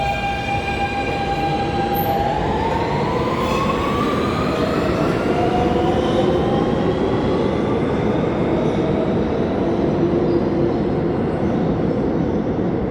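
NYC subway R train pulling out of the station: steady rumble of wheels on rail, with the traction motors' whine rising in pitch in several tones as the train speeds up.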